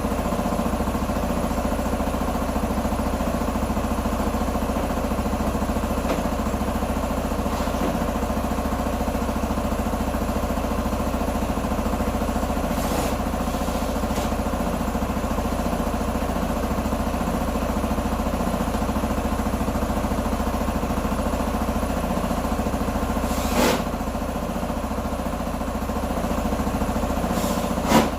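Q2 125 Dynamic motorcycle engine idling steadily, with two sharp knocks in the last few seconds.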